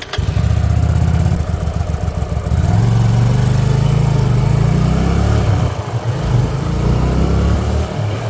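Hyosung Aquila 125 motorcycle's small V-twin engine catching right at the start and running with a steady low beat. The revs rise a little about three seconds in and ease back near six seconds.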